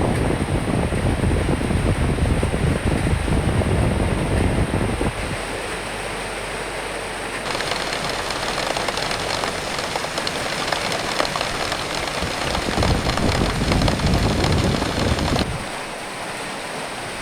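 Recorded rain and wind: a steady hiss of rain with gusty low wind rumble. The rumble is heavy for the first few seconds, then eases, and the mix changes abruptly about five seconds in and again near the end.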